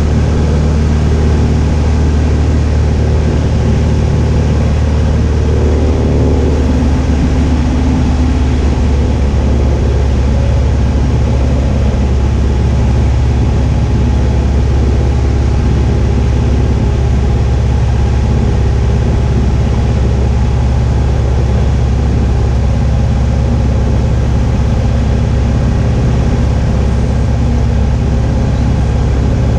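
Cessna 172H's Continental O-300 six-cylinder piston engine and propeller droning steadily at constant power.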